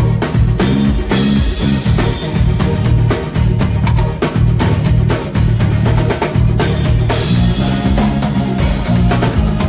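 Live band playing: a drum kit with kick and snare hits over a bass line with sustained low notes.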